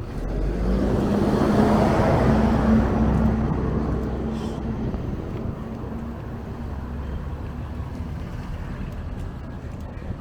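A motor vehicle passing close by on the road, its engine hum and tyre noise swelling over the first two seconds and then slowly fading.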